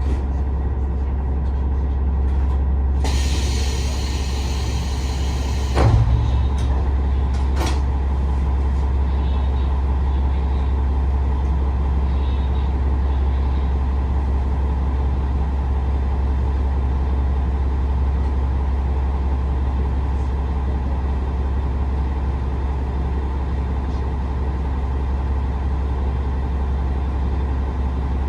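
JR West KiHa 47 diesel railcar's engine idling with a steady low hum. About three seconds in comes a three-second burst of compressed-air hiss that ends in a thump, with a lighter click a moment later.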